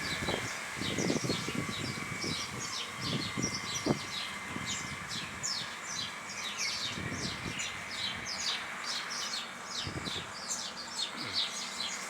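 A chorus of small birds chirping, with quick downward-sliding chirps several times a second, over low irregular thumps and rumbles.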